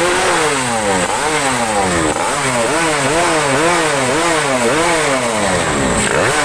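Suzuki Crystal's two-stroke single-cylinder engine being blipped again and again, its pitch rising and falling in quick repeated revs.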